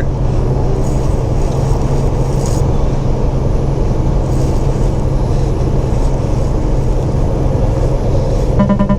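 Semi truck heard from inside the cab while driving downhill: a steady low drone of engine and road noise. A short pitched sound comes in just before the end.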